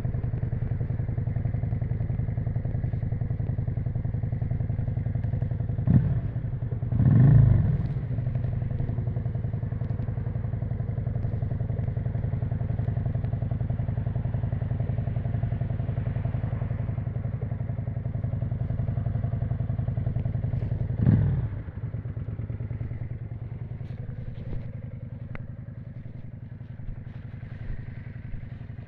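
1991 Yamaha XV535 Virago's air-cooled V-twin running through a custom exhaust at a steady pitch. Brief louder bursts come about six and seven seconds in and again about twenty-one seconds in, after which the engine sound is quieter.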